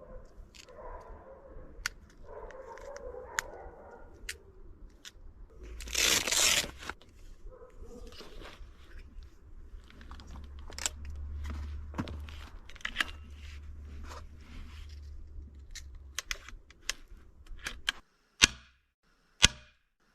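Air gun being handled, with many small clicks and rustling and a loud noisy burst about six seconds in, then two sharp shots about a second apart near the end.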